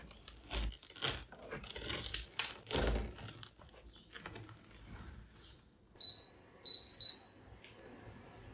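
Rustling and handling noises, then three short, high electronic beeps about six to seven seconds in, the second and third close together.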